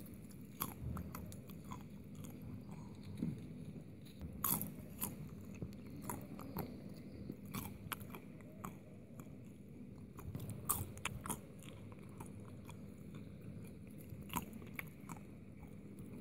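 Roasted peanuts being chewed: irregular crisp crunches, sometimes several in quick succession, over a low steady background.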